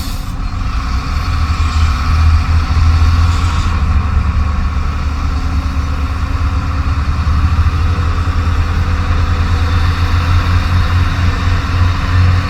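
Heavy diesel truck engine running steadily with a deep, even hum. A short air-brake hiss cuts off right at the start.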